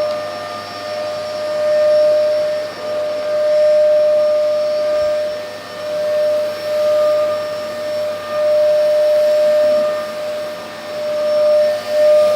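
LG VK69401N vacuum cleaner running: a steady high motor whine that swells and dips in loudness every second or two.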